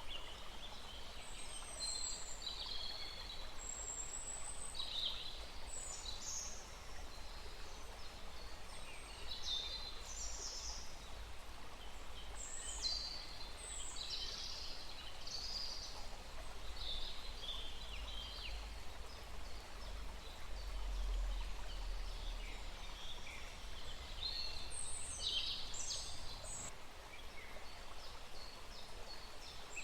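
Several birds chirping in short, high calls throughout, over the steady rush of a small stream, with a low rumble underneath that swells for a few seconds past the middle.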